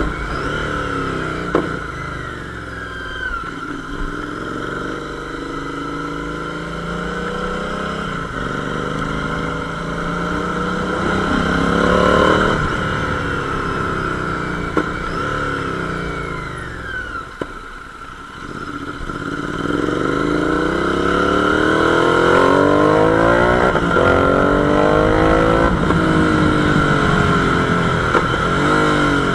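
Royal Enfield Interceptor 650's 648 cc parallel-twin engine running through a newly fitted SS Moto full-system exhaust, revved up and down. Near the end the revs climb and stay high for several seconds.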